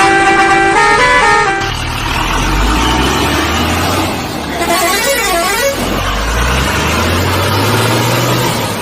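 Electronic toy-vehicle sound effects: a short beeping horn tune at the start, then a rumbling engine sound with a brief warbling siren about five seconds in.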